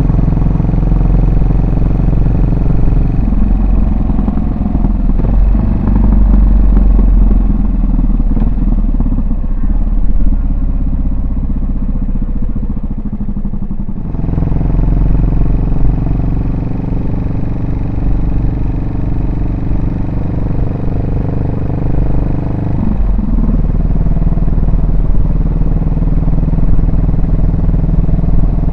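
Yamaha SR400's single-cylinder four-stroke engine and exhaust running under way, a steady thumping note whose engine speed changes a few times: about three seconds in, midway, and again near the end.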